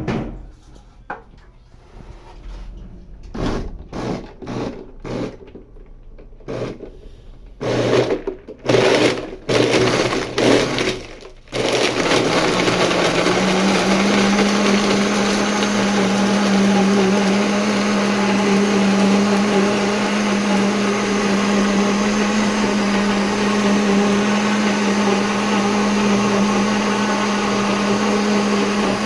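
1990s Arno Auto Clean blender: its motor gives a string of short bursts over the first dozen seconds, then switches on and runs continuously, its hum rising briefly as it comes up to speed and then holding steady.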